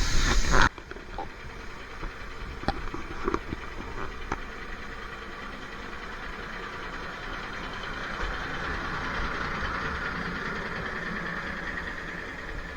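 Railway noise: a loud hiss breaks off abruptly under a second in, leaving a steadier, quieter running sound with a few sharp clicks over the next few seconds and a soft hiss that swells gently later on.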